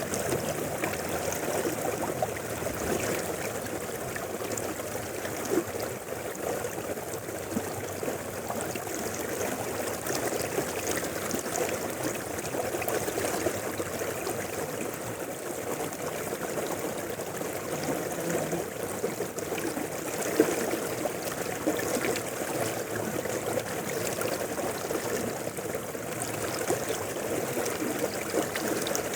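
Mountain river flowing, a steady rush of water, with two brief sharper moments about five and twenty seconds in.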